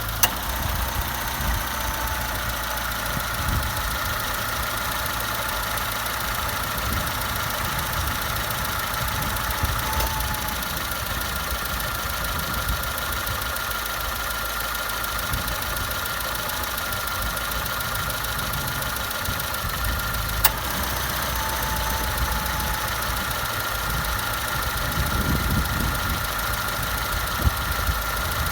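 2002 Citroën C3 engine idling with a rhythmical clunking from the right side of the engine bay, which the owner had diagnosed as the air-conditioning compressor clutch. A steady high whine runs over the engine noise, and a sharp click stands out about twenty seconds in.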